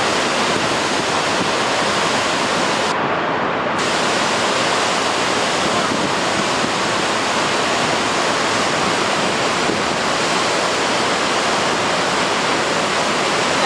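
Waterfall spilling out of a mountainside: a loud, steady rush of water.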